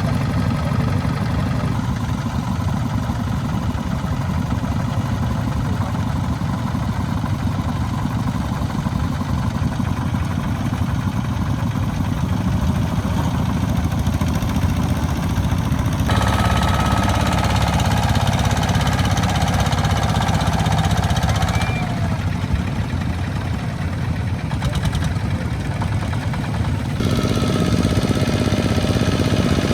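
Small two-wheel tractors' engines running with a fast, heavy chugging, the sound shifting abruptly several times.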